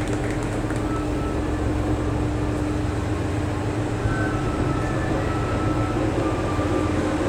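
Setsugekka resort train, a diesel railcar, running as it pulls out: a steady engine drone over a low rumble, with short high tones coming in from about four seconds in.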